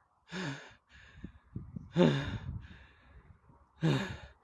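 A man sighs three times, each a short breathy voiced exhale that falls in pitch, spaced about a second and a half apart.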